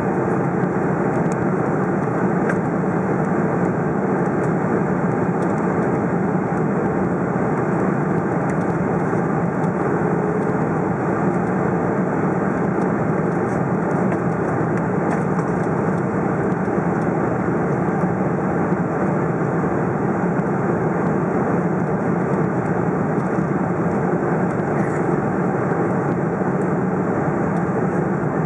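Steady cabin noise inside a Boeing 747-400: engine and airflow noise with no change in level.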